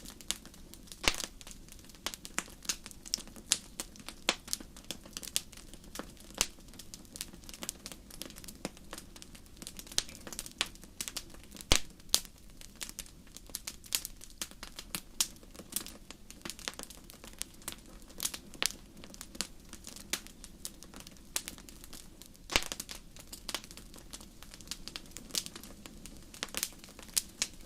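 Wood fire crackling in a fireplace: a steady low hiss of flames with frequent irregular sharp crackles and occasional louder pops.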